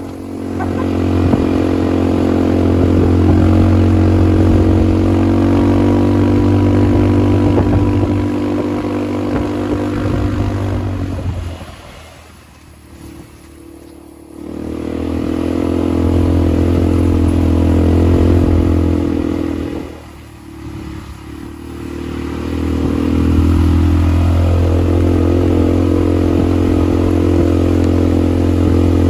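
ATV engine running under throttle with a steady hum. The rider eases off twice, once near the middle and once about two-thirds through, and it drops low before picking up again.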